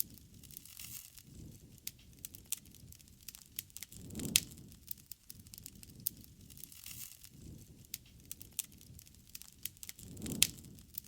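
Wood fire crackling: irregular sharp pops and snaps of burning wood over a soft low rush of flame. Two louder pops, each with a brief low flare, come about four and ten seconds in.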